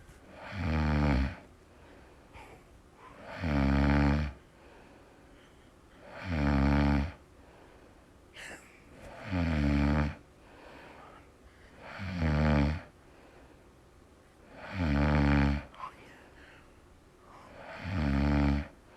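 A bird making loud snore-like sounds, about seven in all, each lasting about a second and coming roughly every three seconds, with quiet breaths between.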